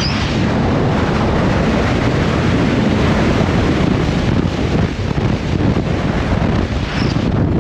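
Heavy wind buffeting the microphone over the steady rush of a jet boat speeding through churning tidal water.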